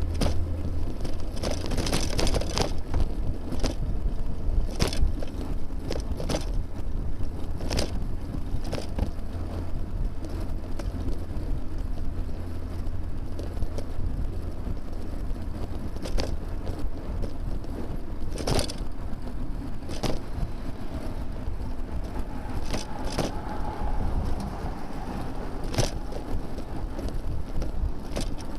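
Riding sounds picked up by a bicycle-mounted camera: a steady low rumble of wind and road vibration, broken by frequent short clicks and rattles.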